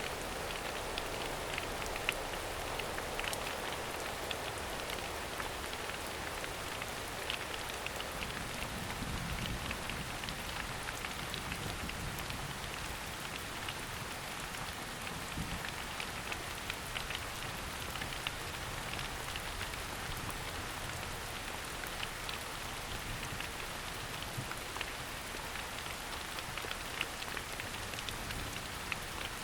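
Steady rain falling on a summer forest, with many small sharp drop hits.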